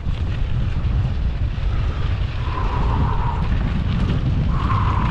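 Wind buffeting the microphone of a camera riding on a moving mountain bike, with a steady rough rumble from the ride. A higher hum comes in briefly twice, about halfway through and near the end.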